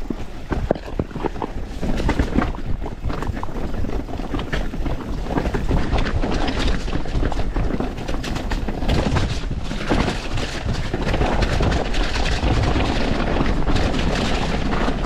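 Mountain bike ridden downhill over rough trail: a steady clatter of tyres and frame over the ground with many small knocks, and wind noise on the helmet-camera microphone. It grows louder about two seconds in.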